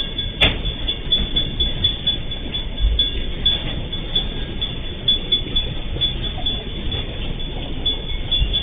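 Container freight train rolling past: a steady rumble of wagon wheels on the rails, with a sharp click about half a second in and a couple of low thumps. Heard through a camera microphone that cuts off the high end.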